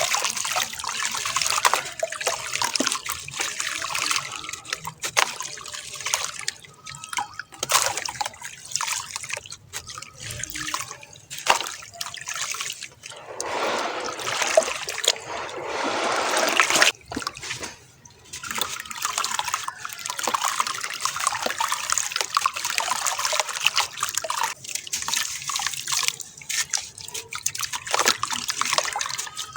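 Dried sand-cement shapes crumbling in water: a continuous crackling, fizzing trickle dotted with small clicks and drips. It grows denser and louder for a few seconds around the middle.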